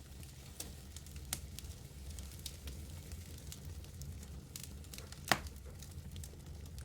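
Wood fire in a fireplace crackling, with scattered sharp pops, the loudest about five seconds in, over a low steady rumble of the burning.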